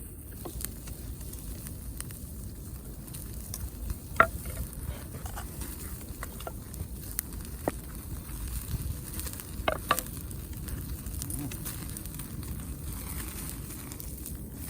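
Wood campfire burning: a steady low rumble with scattered sharp crackles and pops, the loudest about four seconds in and twice around ten seconds in.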